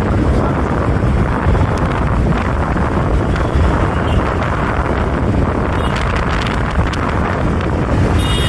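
Wind buffeting the microphone of a camera on a moving bike, over steady road and traffic noise. A high steady tone starts right at the end.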